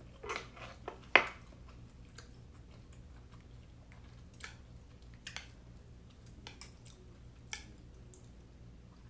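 Close-up chewing and mouth sounds of a person eating steamed siomai dumplings, with sparse soft wet clicks. A sharp click comes about a second in.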